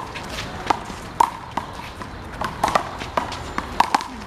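A rubber handball, a big blue ball, being slapped by hand and smacking off the wall and court in a one-wall handball rally: about a dozen sharp, irregular smacks, each with a short ringing pop.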